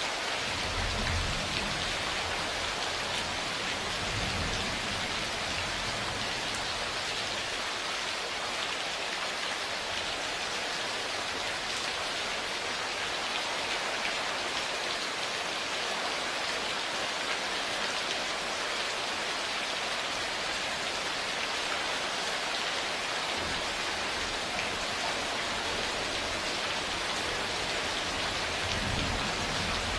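Steady heavy rain hissing and pattering on surfaces, with low rumbles of distant thunder in the first few seconds and again over the last several seconds.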